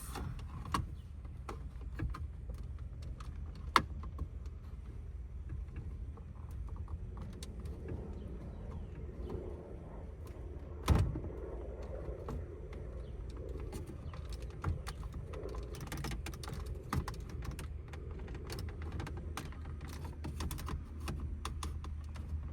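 Scattered clicks and knocks of hard plastic as the instrument cluster is worked loose from a pickup's dashboard, with one loud knock about eleven seconds in and a run of small clicks a few seconds later. A low steady hum sits underneath.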